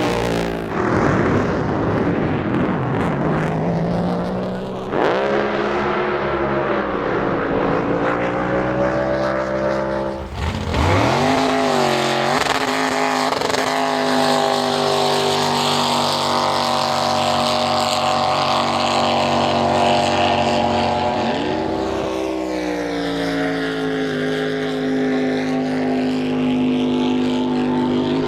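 Drag boat engines running loud and revving, the pitch dropping and climbing again several times, then holding a steady note near the end.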